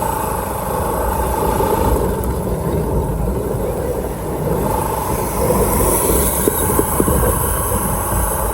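Motorcycle engine running while riding along, with heavy wind rumble on the microphone and a few light knocks about two-thirds of the way through.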